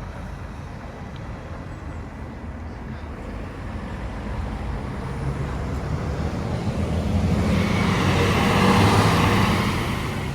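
A road vehicle approaching and passing close by: engine and tyre noise grow steadily louder, peak about nine seconds in, then start to fade.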